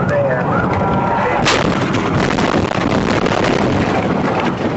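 Loud rumbling noise with a sharp bang about a second and a half in, followed by many rapid knocks.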